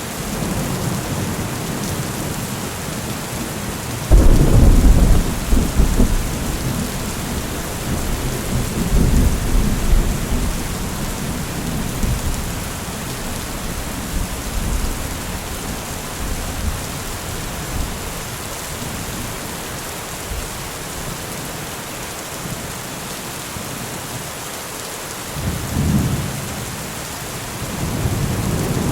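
Steady rain with thunder: a sudden clap about four seconds in rumbles away over several seconds, and a fainter rumble comes near the end.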